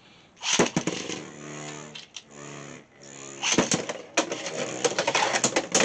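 Two Beyblade X spinning tops launched into a plastic stadium. They spin with a steady hum, then clatter and click rapidly as they collide and grind along the stadium's ratcheted rail.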